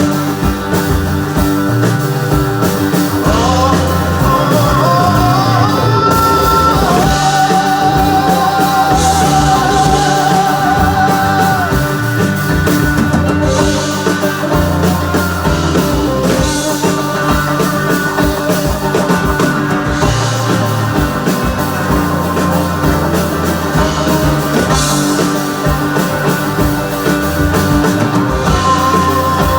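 Psychedelic-style rock music with a steady beat and a full band sound; a lead melody slides upward and then holds one long note for several seconds, about a quarter of the way in.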